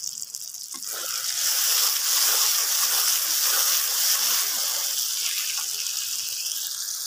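Spiced onion-tomato masala sizzling and spattering in hot oil in a metal pan as it is fried down, a dense steady hiss. It builds over the first second or so and cuts off abruptly at the end.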